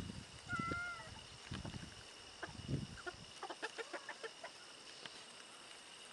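Chickens clucking softly while feeding on corn on the cob, with one short high call about half a second in. Several low dull thuds come in the first three seconds, and a quick run of small pecking clicks follows after about three seconds.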